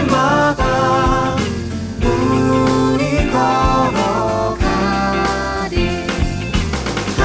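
A worship band plays a hymn arrangement with drums, bass guitar, piano and electric guitar, and a lead melody sliding and bending above them.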